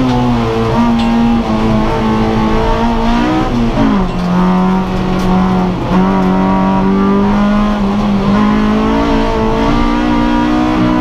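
Honda Civic race car engine running hard under load, heard from inside its stripped, caged cabin. The pitch drops sharply about four seconds in with a gear change, then climbs again as it revs back up near the end.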